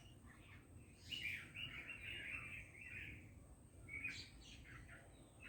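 Bulbul calling: a chattering run of chirps about a second in, lasting about two seconds, then a shorter call a second later.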